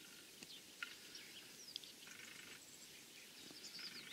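Faint songbird chirps and short whistled glides over quiet open-field background, with a brief buzzy sound about two seconds in.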